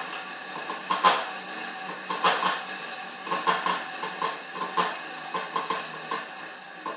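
Horizon M4 bike making a run of clicking and knocking noises, several sharp taps a second at uneven spacing over a light rattle. The owner finds the noise too much for an otherwise well-built bike.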